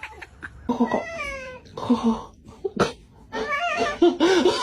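A domestic cat meowing: three drawn-out calls, the first falling in pitch, with a sharp click between the second and third.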